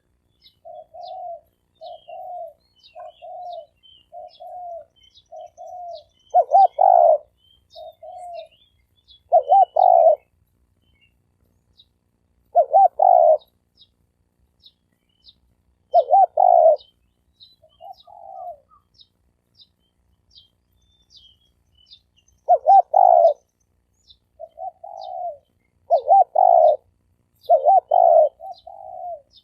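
Spotted doves cooing: loud coos every few seconds, with runs of softer, shorter coos in between, a decoy call meant to rouse and lure wild doves. Faint high chirps of small birds run underneath.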